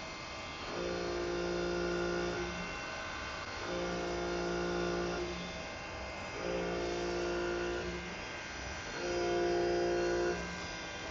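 CNC lathe running repeated turning passes: a steady motor hum and whine comes on for a second or two, then drops away briefly, about four times.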